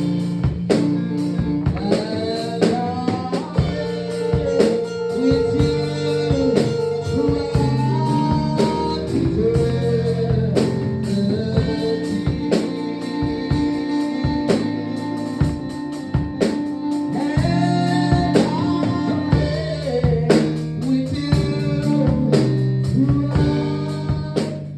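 Worship music: guitar and drums playing, with a sung melody over them.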